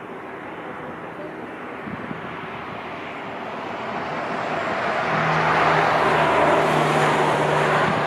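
Jet airliner passing close by, its engine noise swelling over several seconds to a loud peak about five seconds in, with a steady low hum under the rush.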